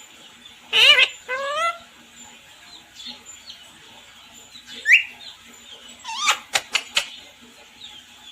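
A pet parrot calling in separate bursts: a call of several pitch sweeps about a second in, a short rising chirp near the middle, and a quick run of sharp squawks and clicks around six to seven seconds.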